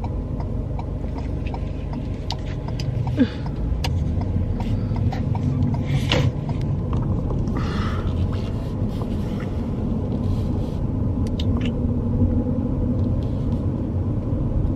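Steady road and engine rumble heard inside a moving car's cabin, with a few light clicks and knocks, one sharper about three seconds in.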